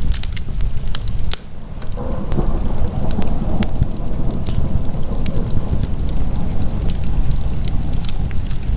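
Wood fire in a fireplace crackling, with sharp pops scattered irregularly over a steady low rumble. The sound dips briefly just after a second in, and a rushing hiss joins about two seconds in.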